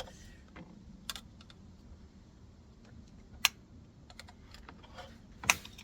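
Scattered sharp clicks and taps of hand tools working at the alternator's freewheel pulley. The loudest comes about three and a half seconds in, and another strong one near the end.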